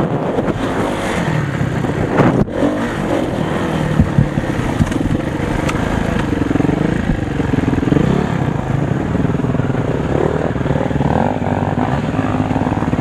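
Motocross dirt bike engine running and revving up and down, its pitch rising and falling several times in the second half.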